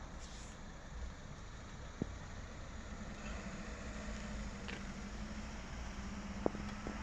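A car engine idling, a faint steady hum that comes up about three seconds in over a low rumble, with a couple of short sharp clicks.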